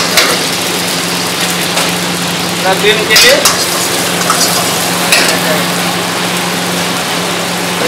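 Chopped aromatics sizzling in hot oil in a wok over a gas burner, stirred with a metal ladle that knocks and scrapes against the pan a few times, most sharply about three seconds in. A steady low hum runs underneath.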